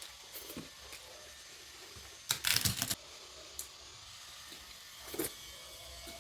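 Eating noises at the table: a few small clicks, and a little after two seconds in a short, loud run of crisp crackles lasting under a second.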